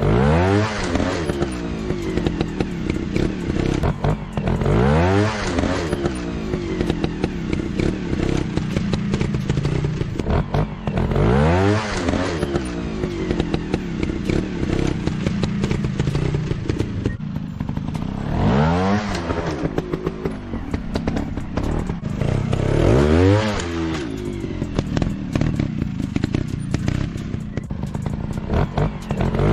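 Off-road motorcycle engines running, their revs rising sharply five times a few seconds apart over a steady engine drone.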